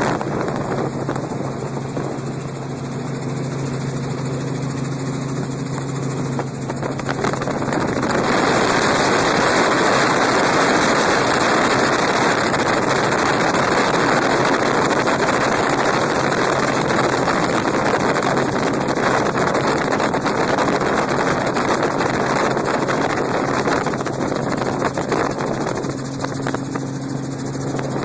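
Helicopter in flight: the engine and rotor give a steady low hum. About a third of the way in, a loud rush of air noise comes up over it and holds, easing off near the end.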